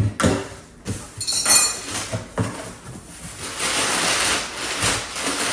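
Contents of a box being handled and unpacked: a few knocks and a short clink in the first second and a half, then steady rustling of packaging.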